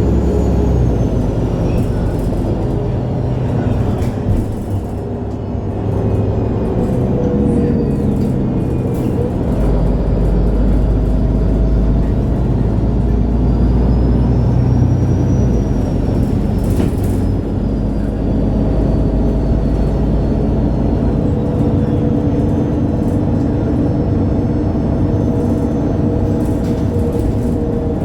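MAN Lion's City G articulated bus (NG323) running with its diesel engine pulling hard. The deep rumble builds strongly a third of the way in and eases off after about twenty seconds, under a high drivetrain whine that slowly rises and falls in pitch.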